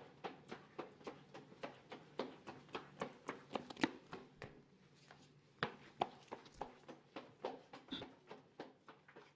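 Footsteps walking on a hard hallway floor, a quick even run of sharp steps that stops for about a second midway, then resumes and grows fainter toward the end.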